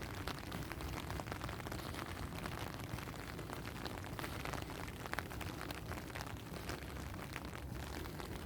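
Steady rain, with many individual drops ticking sharply over a constant hiss and a low steady rumble beneath.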